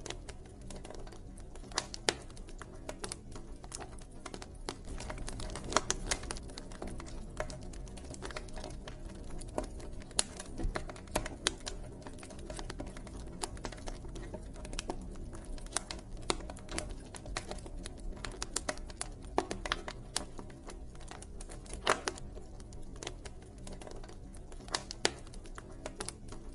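Campfire burning: wood crackling with irregular sharp pops and snaps over a steady low rumble of the flames, with a few louder pops standing out.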